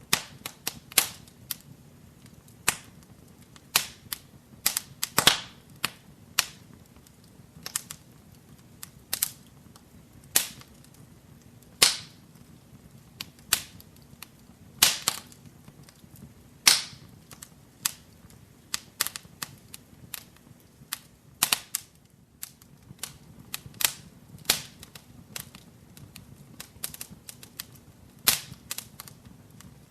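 Wood fire crackling in a fireplace: irregular sharp pops and snaps, roughly one or two a second, over a faint low hiss of flames.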